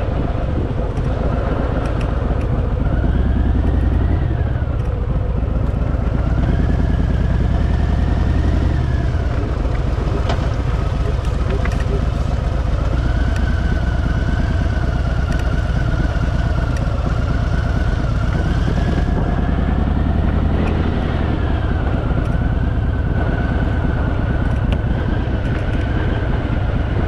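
Harley-Davidson V-twin motorcycle engine running at low speed on a rough dirt road, its revs rising and falling again and again as the rider eases along.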